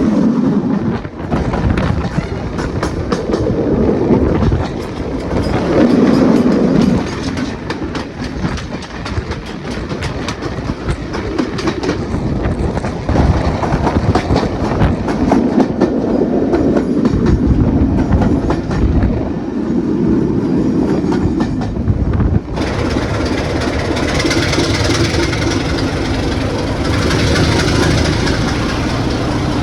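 Class 26 diesel locomotive 26043 on the move, its Sulzer engine running under a loud rumble with wheels clattering over rail joints. About three-quarters of the way through the sound changes abruptly to a steadier, even engine note with more hiss.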